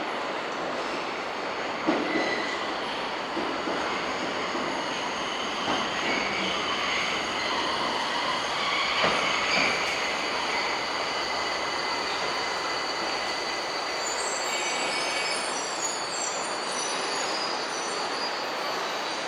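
Tokyo Metro 1000 series subway train running on the track: a steady rumble with thin high tones over it and a few knocks in the first half. About fourteen seconds in, a cluster of higher tones joins briefly.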